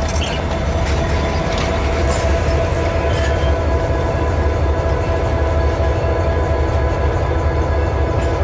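Passenger train cars rolling past on the rails: a steady low rumble of wheels on track, with a steady high squealing tone over it.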